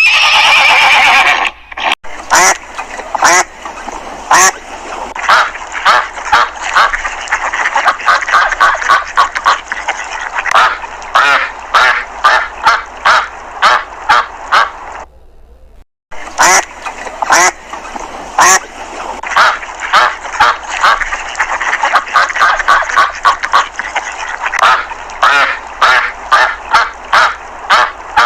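Ducks quacking in long rapid runs of short, harsh calls, with a brief break about halfway through.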